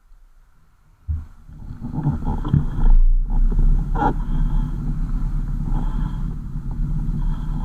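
Car on the move: a steady low engine and road rumble that comes in sharply about a second in, after a nearly quiet start, with a few light knocks over it.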